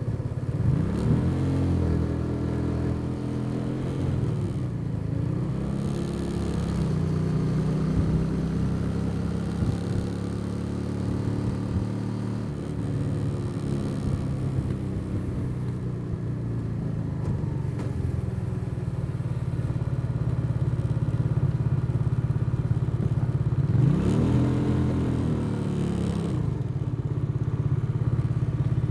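Motorcycle engine running under way, with its pitch swelling up and back down briefly about a second in and again near the end as the revs rise and fall.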